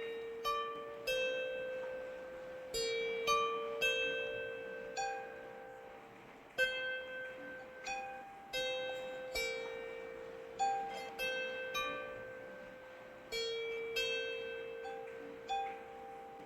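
Slow, gentle plucked-string music: single notes and small clusters struck a few at a time, each ringing out and fading over a second or more. Underneath runs a faint, steady hiss of rain.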